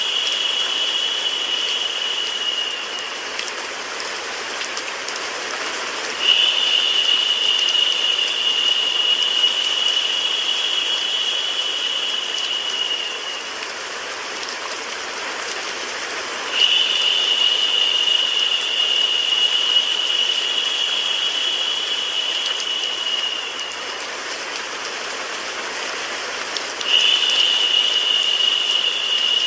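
Steady rain and white-noise hiss. Over it a high, steady buzzing trill comes in for about seven seconds at a time, with gaps of about three seconds, three times over.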